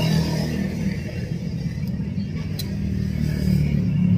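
A vehicle engine running steadily, with two short clicks a little under a second apart about two seconds in.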